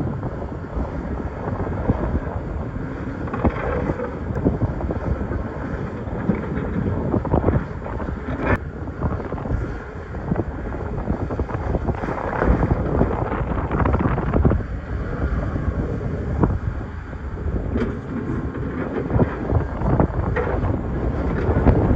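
Excavator working in rock: the engine runs under load while the bucket scrapes and knocks against stones, with scattered sharp cracks.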